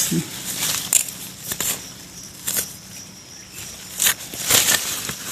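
Dry leaf litter and soil crackling and crunching in a handful of short scrapes, as the ground is scratched at to dig out earthstar mushrooms.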